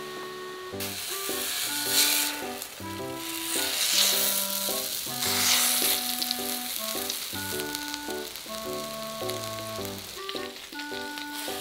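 Raw hamburger patties sizzling in hot oil in a pan. The sizzle flares up three times as each patty is laid in, over background piano music.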